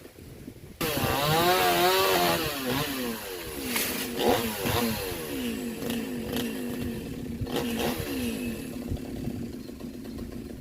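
Two-stroke chainsaw bursting into sound about a second in and revving unevenly, then running at a steadier pitch as it cuts. A couple of sharp knocks come through partway.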